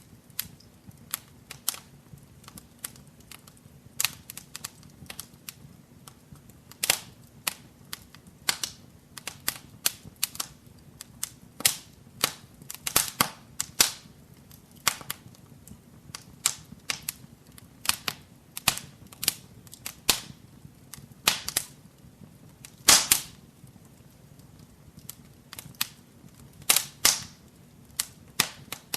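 Wood fire crackling in a fireplace: irregular sharp snaps and pops, a few louder cracks among many small ticks, over a faint low rumble of the flames.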